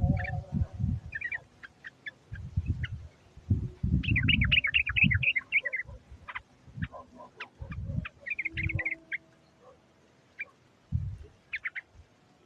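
Yellow-vented bulbul (trucuk) calls, given as a lure to call in wild bulbuls: short runs of quick chattering notes, the longest about 4 s and 8.5 s in. Loud low thumps come between them, mostly in the first half.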